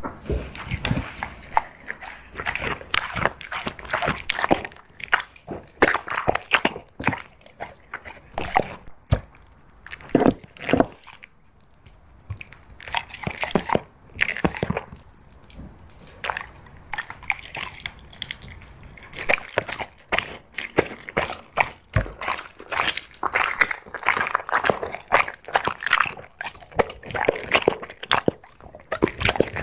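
A dog eating: chewing, biting and mouth sounds come as many irregular sharp clicks, with a few quieter stretches in between.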